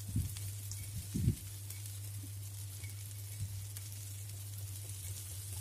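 Egg, cabbage and carrot mixture frying gently in shallow oil in a nonstick pan, a soft steady sizzle over a low hum. A couple of soft knocks in the first second and a half as a spatula pushes the mixture into a square shape.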